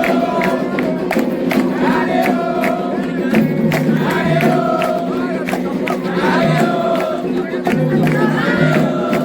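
Candomblé ritual music: a group singing a chant together over steady hand drumming, about two strokes a second.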